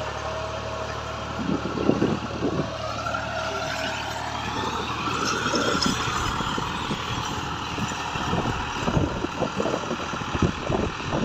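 Massey Ferguson 260 tractor's three-cylinder diesel engine running steadily while pulling a disc harrow, swelling a little louder around the middle.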